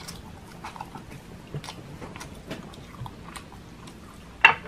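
Close-miked chewing of a person eating by hand: soft wet mouth smacks and small clicks, with one louder, sharp mouth sound near the end.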